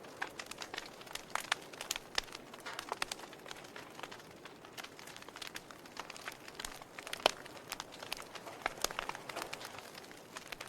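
Wood fire crackling: irregular sharp pops and snaps over a low steady hiss, the loudest pop about seven seconds in.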